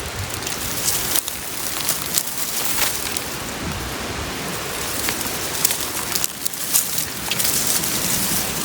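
Campfire crackling and hissing, with many sharp pops and snaps over a steady hiss.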